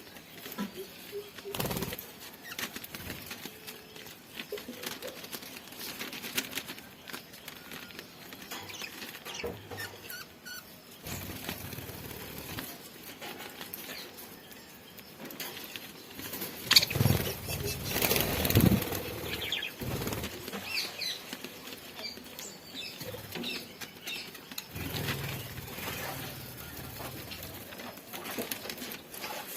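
Pet budgies moving about their cage as they eat: a run of small pecking clicks and scuffles, with wing flaps. The loudest cluster of scuffling comes a little past the middle.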